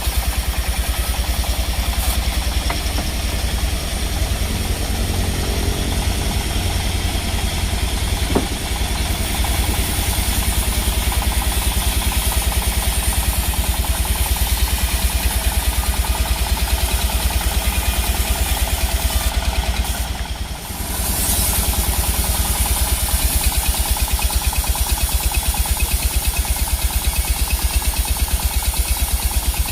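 Sawmill machinery running steadily: a low engine drone with a fast, even pulse, dipping briefly about twenty seconds in.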